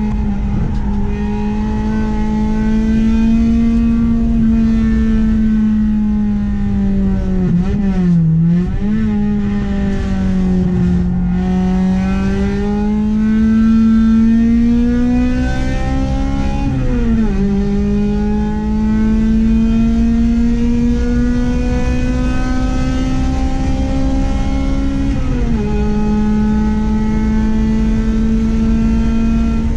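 Honda H22A 2.2-litre DOHC VTEC inline-four in an Accord, driven hard on track. The revs climb steadily through each gear and drop sharply at the upshifts about 17 and 25 seconds in, with a brief dip and recovery about 8 seconds in.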